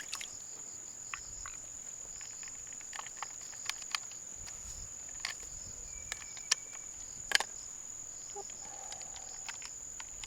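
A steady, high-pitched insect trill of the cricket kind, with scattered sharp clicks and taps; the loudest click comes a little past the middle.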